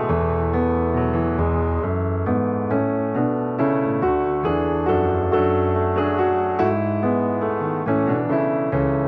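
Background piano music: a gentle melody of steady notes over sustained bass notes.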